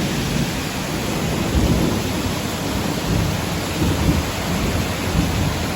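Heavy rain pouring steadily during a thunderstorm, with a low rolling rumble of thunder under it that swells and fades.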